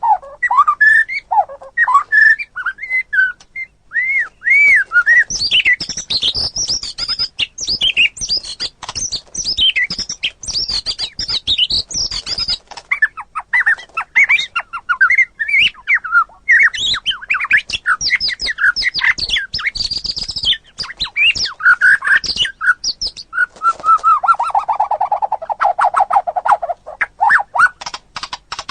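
White-rumped shama singing continuously: a fast, unbroken run of varied whistles, slurred rising and falling notes and clicking chatter, with a lower buzzy rattle near the end.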